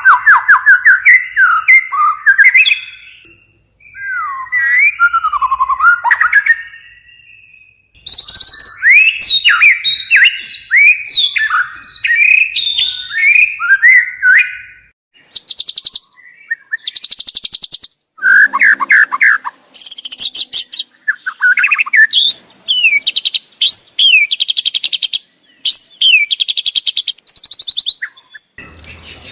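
White-rumped shama calling loudly: phrases of quick whistled notes sliding up and down, mixed with bursts of fast dry rattling clicks, the 'kretekan' call, with short pauses between phrases.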